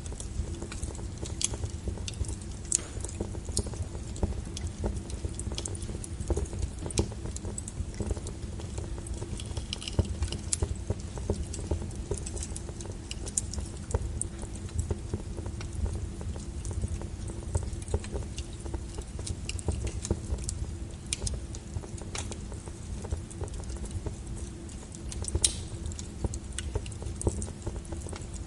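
Wood fire crackling: irregular sharp pops and snaps over a steady low rumble of the burning logs, with one louder pop about 25 seconds in.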